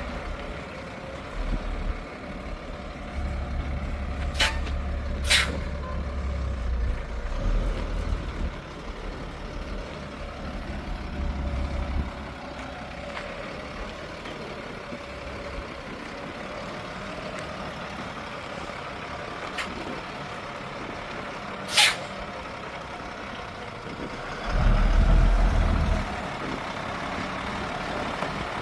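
GMC feed truck running with a steady hum. Short sharp sounds come twice in quick succession a few seconds in and once more past the middle, and a heavy low rumble swells briefly near the end.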